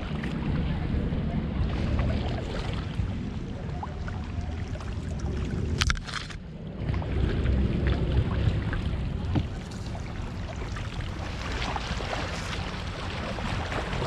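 Paddling a kayak on a river: water sloshing and paddle strokes with scattered small clicks, over a low wind rumble on the microphone. A sharp knock comes about six seconds in.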